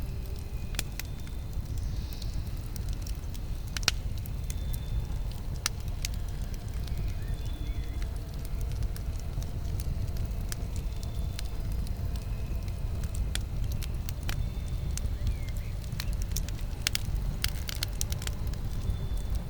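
Campfire burning: a steady low rush of the flames with scattered sharp pops and crackles from the burning wood. The loudest pop comes about four seconds in, and a quick cluster of pops comes near the end.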